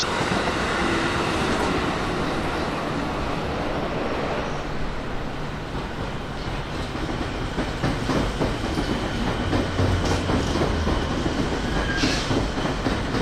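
Electric commuter train running along the station platform, its wheels clicking over the rail joints in an even rhythm, with a steady rumble underneath.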